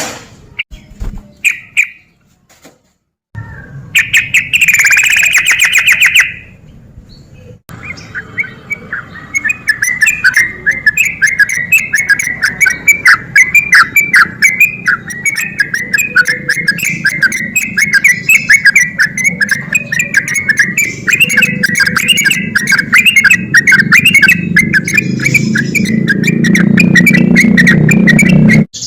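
Yellow-vented bulbul (trucukan) singing: a short call, then a loud call a few seconds in, then from about eight seconds in a long, rapid run of notes near one pitch, the fast 'ropel' song that bird keepers prize. A low rumble builds under it near the end.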